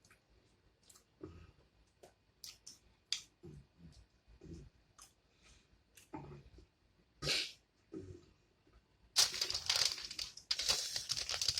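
Close-up eating sounds: scattered wet mouth smacks and chewing clicks. About nine seconds in comes a louder stretch of crackling and tearing that lasts a couple of seconds.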